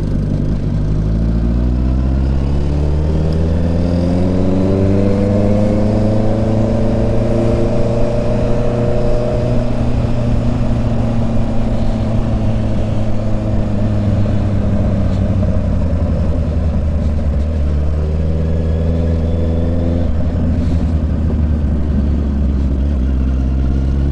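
Honda CB650 inline-four motorcycle engine running under way, its pitch climbing steadily for the first several seconds as it accelerates, then easing off about ten seconds in and holding steady. The engine note changes suddenly about twenty seconds in.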